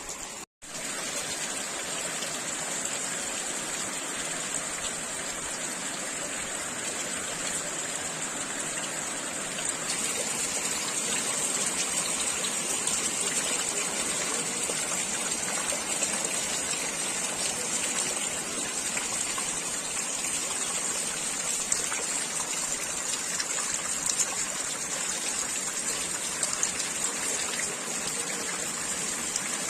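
Heavy rain falling steadily, with the rush of running and pouring water. There is a brief dropout about half a second in, and the rain gets a little louder from about ten seconds in.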